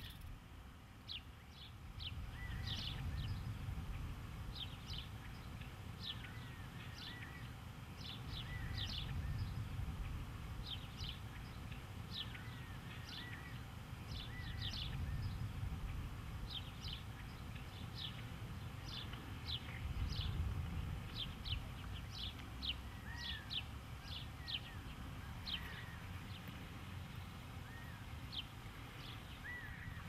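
Small birds calling: many short, sharp, high chirps a second or so apart, with softer, lower little whistled notes between them, over a steady low rumble.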